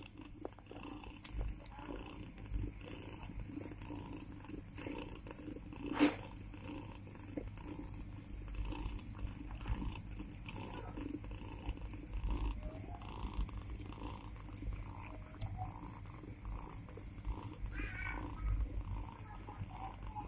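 Mother cat purring steadily as her newborn kittens nurse, with a few faint short mews later on. A single sharp tap sounds about six seconds in.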